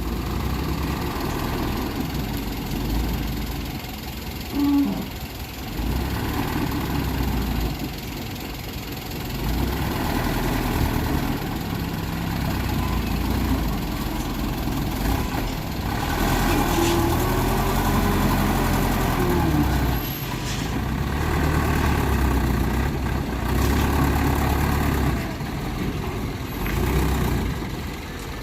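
Light dump truck's engine running, its pitch and loudness shifting up and down.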